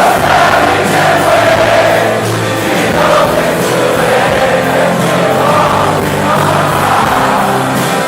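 A large crowd singing along in chorus over a live rock band, with long held sung notes.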